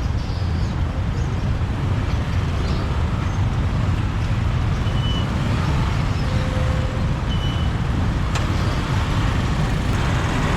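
Steady road noise from riding a motorbike through city traffic, a dense low rumble of engine and passing vehicles. A few brief faint beeps sound about halfway through.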